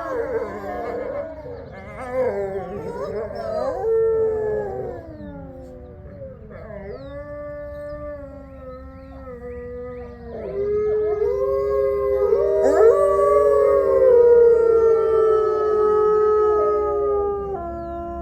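A pack of gray wolves howling in chorus, several long overlapping howls at different pitches that slide and fall. The chorus thins to a few voices partway through, then swells again with more wolves joining before tailing off near the end.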